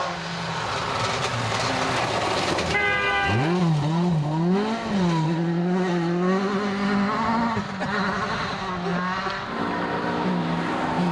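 Rally car engine at high revs. About three seconds in the revs climb sharply, then rise and fall for several seconds before settling to a steady high note.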